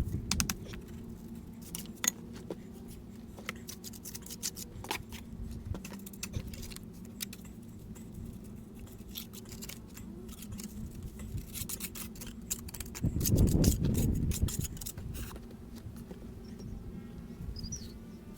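Scattered sharp clicks and taps of masonry work, stone and tools knocking, over a steady low hum, with a louder low rumble about thirteen seconds in.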